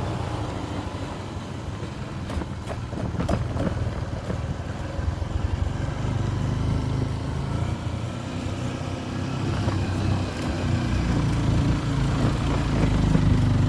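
A 150 cc Honda motorbike running along the road, its engine note steady under road and wind noise. There are a few sharp clatters two to three seconds in, and the engine grows louder near the end.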